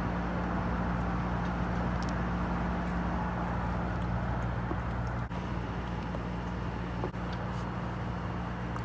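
A cruising sailboat's engine running steadily under way, a constant low drone over an even rushing noise.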